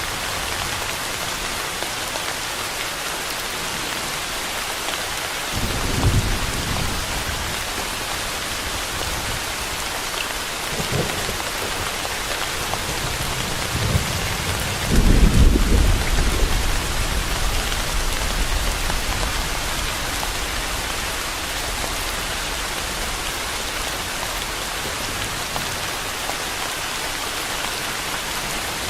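Steady rain falling as an even hiss, with low rumbles of thunder: a short one about six seconds in, a faint one around eleven seconds, and a louder rumble from about halfway that slowly dies away.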